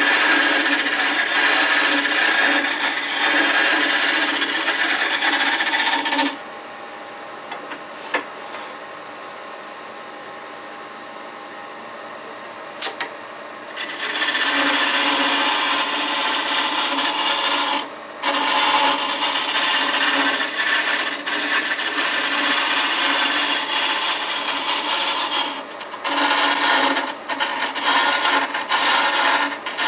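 Record Power Coronet Herald wood lathe spinning a walnut handle blank while a turning tool cuts it, a rough scraping noise. The tool comes off the wood for several seconds in the middle, leaving only the lathe's steady hum, then cuts again in shorter, broken passes near the end.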